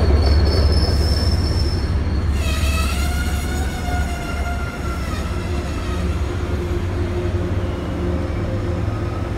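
MBTA commuter train's bilevel passenger coaches rolling past close by with a heavy low rumble. From about two seconds in, a high, wavering steel wheel squeal rises over it.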